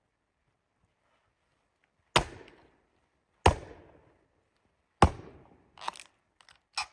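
Wood being chopped: three hard strikes about a second and a half apart, each dying away quickly, then a few lighter knocks near the end.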